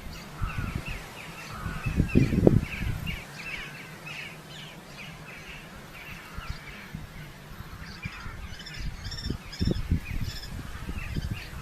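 Birds calling at a red-footed falcon nest colony: a rapid series of short, repeated calls, quieter in the middle, then higher-pitched calls near the end. Dull low thumps come around two seconds in and again near the end.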